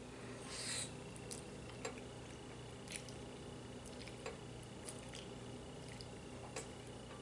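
Faint eating sounds at a bowl of stew: scattered light clicks of utensils against the dish at an irregular pace, with a brief noisy rush about half a second in.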